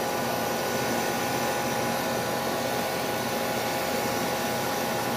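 York central air conditioner outdoor condenser unit running steadily: an even rush of air from the condenser fan with a constant compressor hum and several steady tones underneath.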